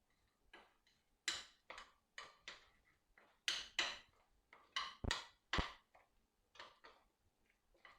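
A utensil clicking and scraping against a mixing bowl at irregular intervals while stirring a thick spice-and-flour marinade paste, with two duller knocks about five seconds in.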